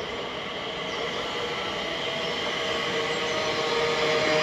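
A train approaching along the line, its running noise growing steadily louder with a steady whine over it.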